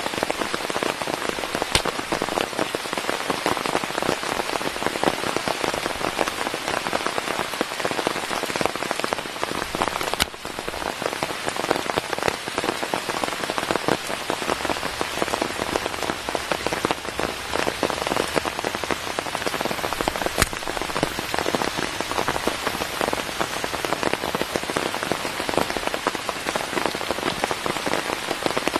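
Steady rain falling, an even dense hiss made of many close, separate drop hits, with a brief lull about ten seconds in.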